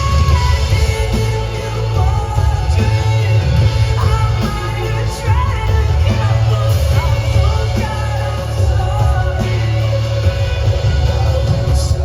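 Live pop-rock band performance: a male lead vocalist singing over heavy bass and drums.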